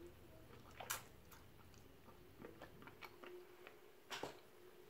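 Faint chewing and mouth sounds of a person eating seafood, with scattered small smacks and clicks; the loudest come about a second in and again near the end.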